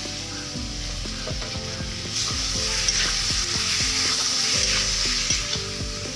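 Food frying in hot oil in a pan, sizzling steadily while it is stirred, with scattered clicks of the utensil; the sizzle grows louder about two seconds in.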